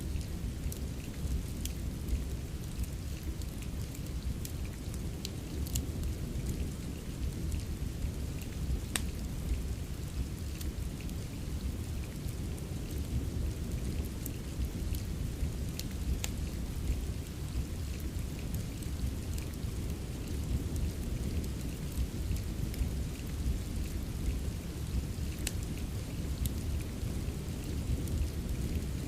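Steady rain ambience with a continuous low rumble, mixed with wood-fire crackling heard as scattered sharp clicks and pops.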